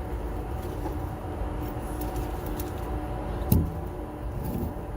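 A vehicle engine idling steadily, with one sharp metallic knock about three and a half seconds in.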